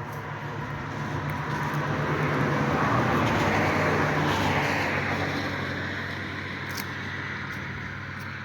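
A motor vehicle passing: engine hum and road noise swell to a peak about three to four seconds in, then fade away.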